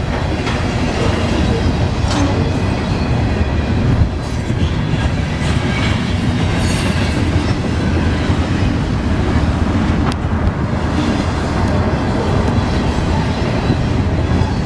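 Train cars rolling past close by, a steady rumble with the clickety-clack of wheels over rail joints.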